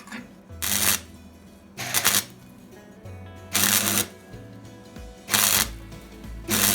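Welder making five short tack welds on a steel patch on a chassis rail, each a crackling burst of about half a second, spaced a second or so apart.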